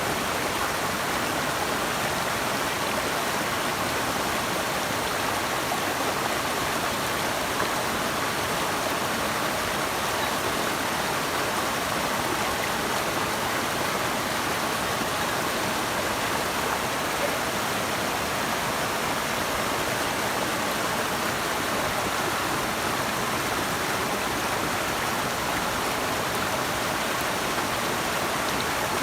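Running water rushing steadily, an even unbroken hiss with no other events.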